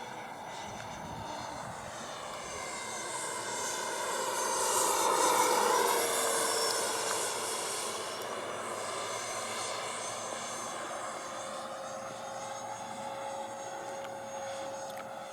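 Electric ducted fans of an FMS Rafale RC model jet whining in flight. The whine grows louder to a peak about five seconds in and drops in pitch as the jet passes, then carries on steadier and quieter.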